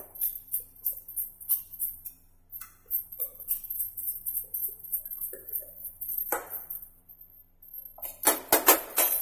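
Wire whisk beating thick cake batter in a steel bowl, with irregular clinks and taps of the whisk against the bowl. Near the end, a louder clatter of several quick strokes as a bowl of flour is tipped in.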